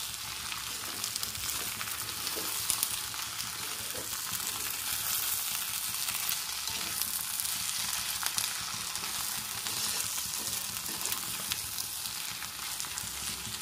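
A nearly dry potato stir-fry sizzling in a hot black kadai, stirred with a perforated steel spatula: a steady frying hiss with scattered light scrapes and clicks of the spatula against the pan.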